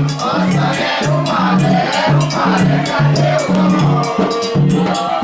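A group of voices singing a religious chant over drums and a shaker keeping a steady rhythm.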